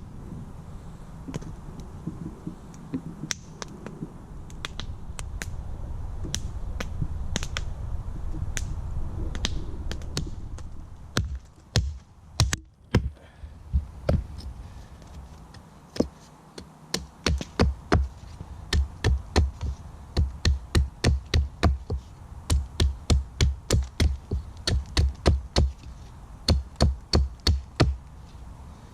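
A knife whittling a point on a wooden stick: a fast, even run of sharp knocks, about two or three a second, in the second half. Before that there is a low rumble with scattered crackles.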